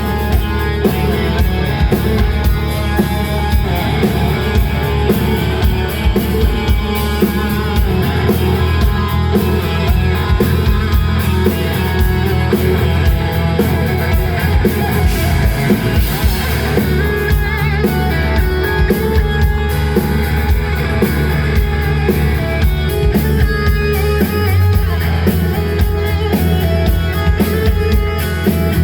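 Live rock band playing an instrumental passage: electric guitar over a steady drum-kit beat.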